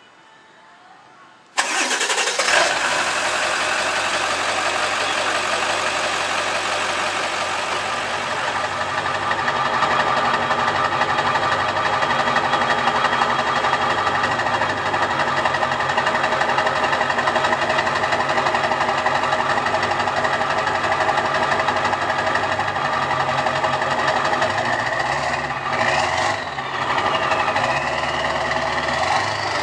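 Straight-piped 7.3L Powerstroke V8 turbo diesel, exhausting through 6-inch stacks, starts suddenly about a second and a half in and settles into a loud, steady idle.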